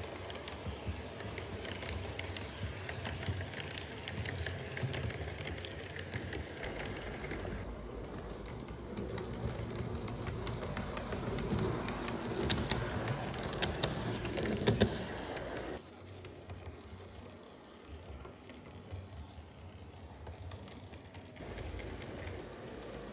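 Model trains running on layout track: a dense, quick clicking and rattling of wheels over rail joints. The sound changes abruptly several times, about 8, 16 and 21 seconds in.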